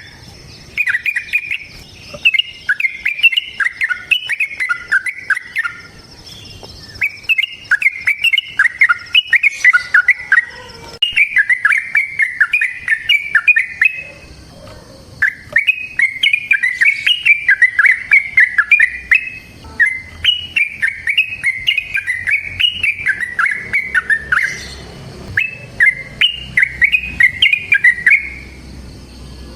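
Yellow-vented bulbul (trucukan) singing its long, rapid bubbling song in repeated phrases of a few seconds each, with short pauses between them.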